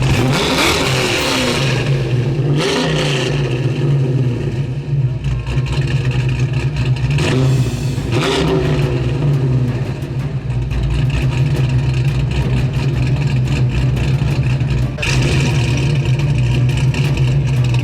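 Car engine idling with a steady low rumble, revved up and let back down three times: near the start, about three seconds in, and about eight seconds in.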